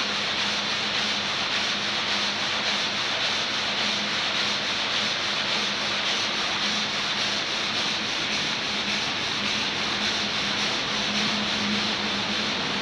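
Multi-blade marble gang saw cutting through a marble block under a flood of water: a steady grinding hiss with a low steady hum underneath.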